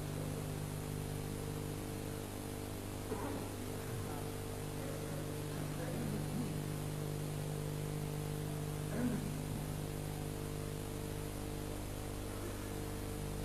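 Steady electrical hum from a mosque's amplification system during a pause in Quran recitation, with a few faint murmurs from listeners about three and nine seconds in.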